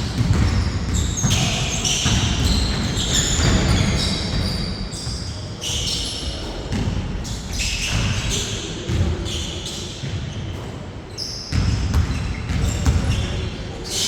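Half-court basketball game: the ball bouncing repeatedly on the court, with short high squeaks that fit sneakers on the floor, echoing in a large hall.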